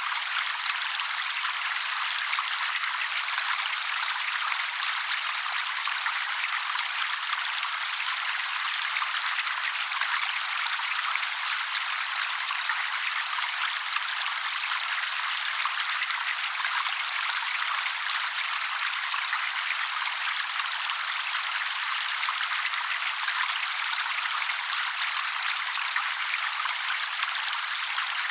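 Steady trickling of water, a thin, even splashing hiss with no low end and no bird calls over it.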